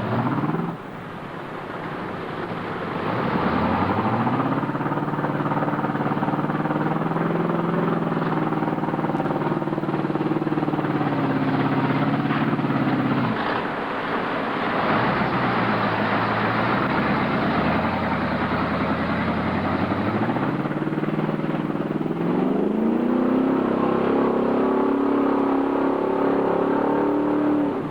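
A mud truck's engine revving: it climbs over the first few seconds and holds at high revs, drops back about halfway through, then climbs and holds high again toward the end.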